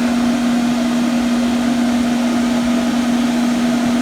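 A small electric motor running steadily: one constant hum over an even hiss, with no change in pitch or level.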